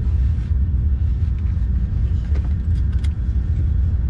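Race truck engine idling with a steady low, uneven rumble, with a few light clicks and rattles over it.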